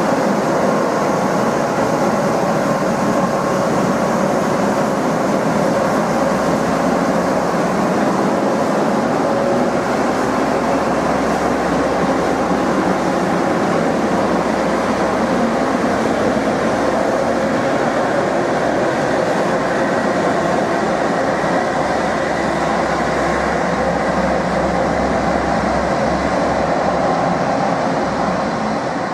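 A train running, heard as a steady, unbroken noise with a few held tones in it.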